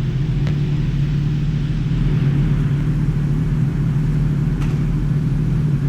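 Yamaha XSR900's three-cylinder engine running at a steady speed, with no revving.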